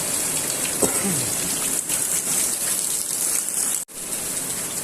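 Heavy rain pouring down, a dense steady hiss of water. About a second in there is a short falling squeak, and just before four seconds the sound cuts out for an instant.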